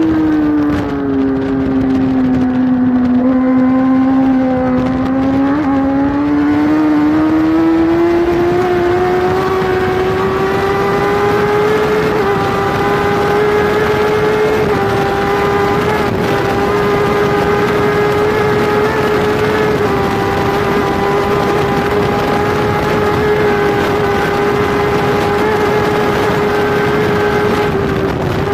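Onboard sound of a Kawasaki superbike's inline-four racing engine at speed. The engine note drops about a second in, then climbs over several seconds and holds high and steady, with brief small dips at gear changes. Heavy wind rush runs over the microphone throughout.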